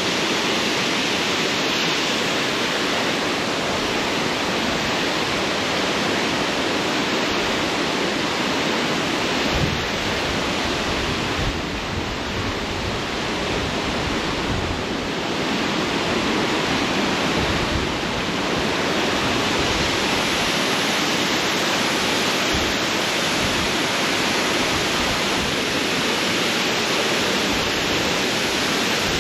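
Waterfall swollen by heavy rain, heard from right underneath it: a steady, loud roar of rushing, falling water.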